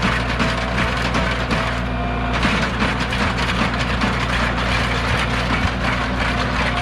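An engine running steadily under continuous crackling and crunching as a riding lawn mower is wrecked.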